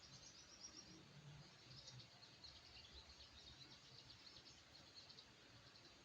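Faint, rapid, high-pitched chirping and twittering of a small songbird, most likely the wild-caught sogok ontong sunbird being tamed, going in quick runs with short pauses.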